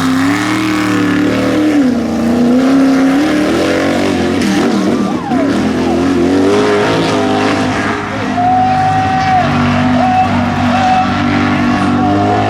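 Mega truck engines running loud at a mud bog, revving up and down in the first half and then holding steadier.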